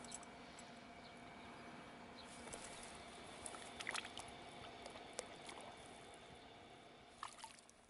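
Quiet outdoor background with a faint steady hum and a few scattered soft ticks and clicks.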